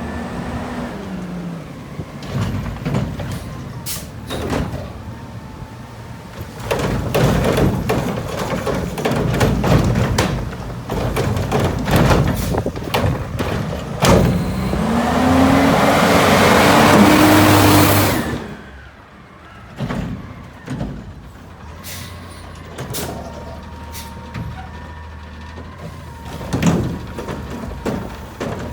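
Garbage truck with a Curotto-Can arm working carts of yard waste: the engine revs up as the hydraulics run, with repeated knocks and bangs of carts and falling waste. Near the middle a loud rushing noise builds for a few seconds and cuts off suddenly. After that it is quieter, with scattered knocks.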